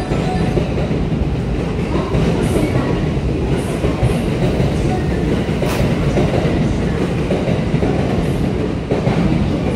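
Electric train running at a station platform: a steady low rumble with scattered sharp clanks from the wheels and track, one clearer clank about six seconds in.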